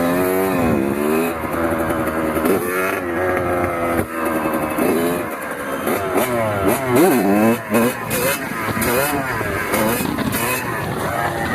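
Kawasaki KX100 single-cylinder two-stroke dirt bike engine revving up and down repeatedly under changing throttle, with a few quick sharp blips about seven seconds in.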